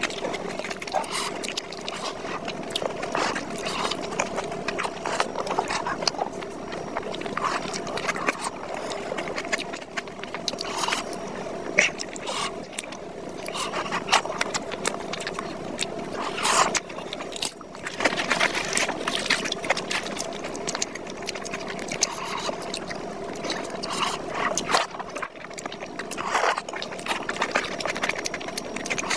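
Close-miked eating of mutton curry with luchi by hand: wet chewing and many small mouth clicks and smacks. A steady low hum runs underneath.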